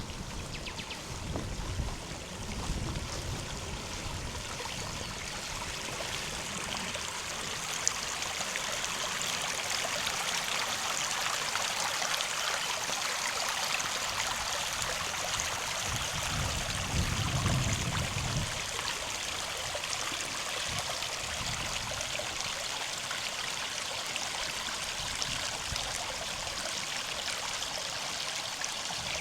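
River water flowing steadily over stones, a continuous rushing and trickling. A low rumble comes in briefly near the start and again about two-thirds of the way through.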